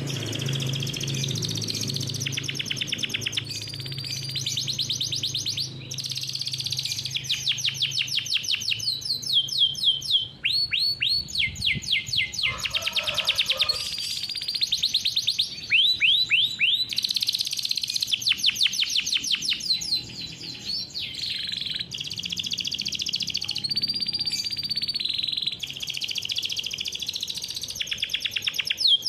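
Domestic canary singing a long, unbroken rolling song: fast trills of rapidly repeated high notes, switching to a new trill every second or two.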